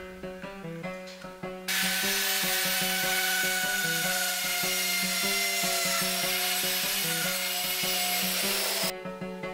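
Loud rasping tool noise, starting abruptly about two seconds in and cutting off near the end, over background music with a steady beat.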